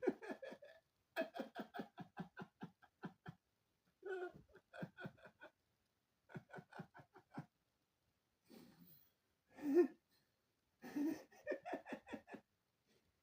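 A man laughing in several bouts of quick, rhythmic pulses, catching his breath between them.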